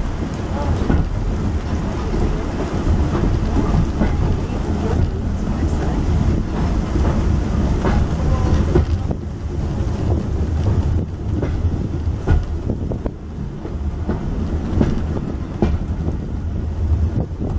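A train running along, heard from inside the carriage: a steady low rumble with wind noise on the microphone and scattered knocks.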